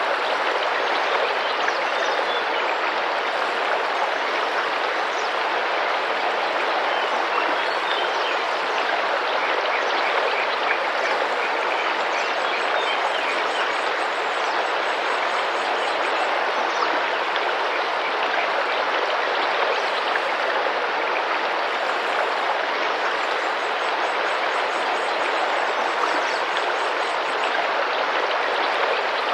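Tropical rainforest river water rushing and splashing steadily, with faint bird chirps now and then.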